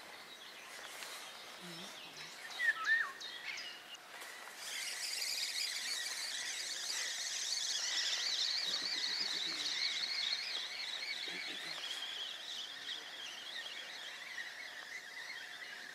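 Birds singing outdoors: a couple of short, louder calls about three seconds in, then a dense chorus of high chirping that starts about four seconds in and slowly fades.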